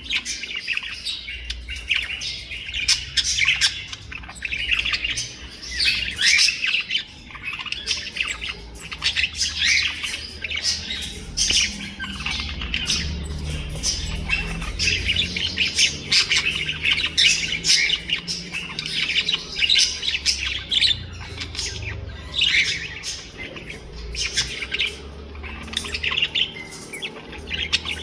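A flock of pet birds chirping and calling continuously, a dense chatter of short, high calls with a low rumble underneath.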